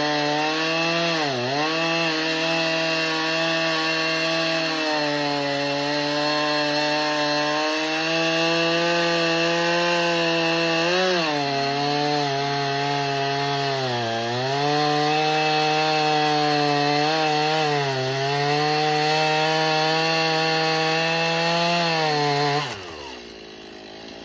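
Stihl MS391 two-stroke chainsaw at full throttle cutting through wood, its engine pitch dipping briefly several times as the chain takes load. Near the end the throttle is released and the engine falls to idle.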